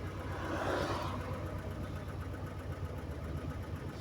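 Car engine running with road noise, heard from inside the cabin while driving, with a brief rush of noise about a second in.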